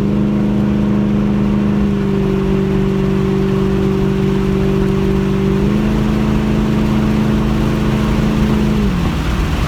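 2007 Ford Mustang GT's 4.6-litre V8 engine running at high, steady revs, heard from inside the car over road and wind noise. Its pitch steps up slightly about six seconds in and falls just before the end.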